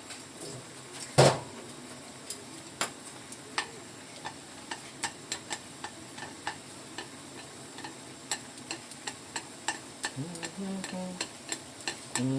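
Close-up eating sounds of Jjapaghetti noodles: a run of wet, sharp mouth clicks and smacks from chewing, several a second. There is one much louder knock about a second in.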